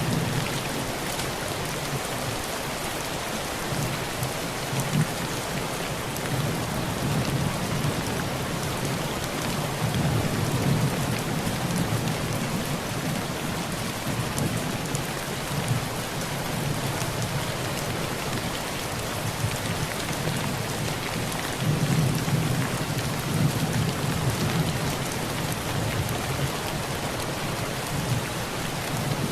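Heavy rain drumming steadily on a tin roof, with low thunder rolling in about a third of the way through and again in the last quarter.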